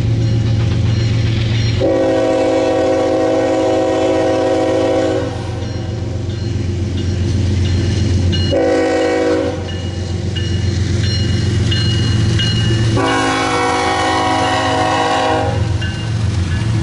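Diesel freight locomotive sounding its multi-note air horn in three blasts, long, short and long, over the steady rumble of the passing train.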